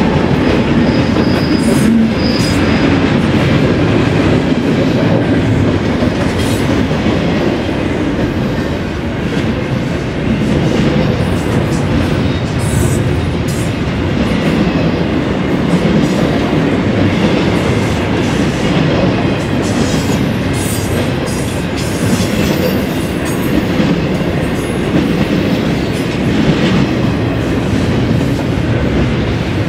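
BNSF freight train rolling past at close range, its steel wheels clicking over the rail joints, with two brief high wheel squeals in the first few seconds.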